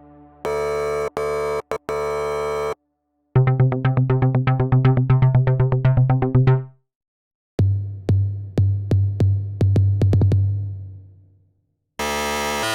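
OsTIrus, an emulation of the Access Virus TI synthesizer, playing a string of different patches with short silences between them. First a held chord chopped by brief cuts, then a fast run of repeated notes, about seven a second, then a pulsing low bass line that fades out. A bright chord starts near the end.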